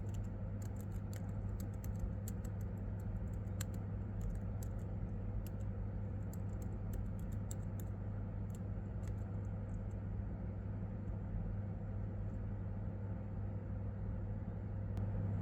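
Typing on a Chromebook keyboard: quick key clicks that thin out after about five seconds and become only occasional later on, over a steady low hum.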